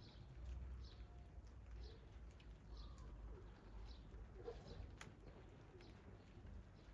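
Faint birdsong: a small bird giving short, falling chirps about once or twice a second over a low, steady rumble, with a single sharp tick about five seconds in.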